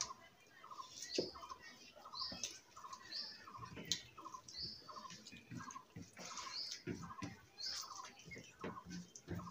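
A bird calling over and over: a short note repeated about twice a second, with a higher rising chirp about once a second. Soft clicks and smacks of people eating rice by hand come and go underneath.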